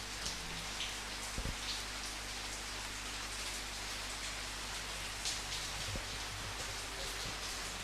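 Steady rain falling, an even hiss with scattered louder individual drops striking a surface.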